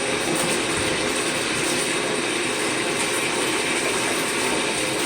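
Steady rush of running water from a tub tap or shower, rinsing the plastic parts and long wand tube of a Shark NV22 vacuum.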